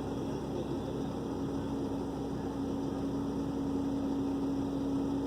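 Dump truck engine running steadily with a constant hum that grows slowly louder.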